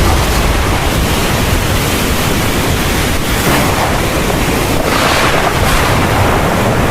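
Heavy rain pouring steadily in a thunderstorm, with a low rumble underneath, swelling briefly a couple of times.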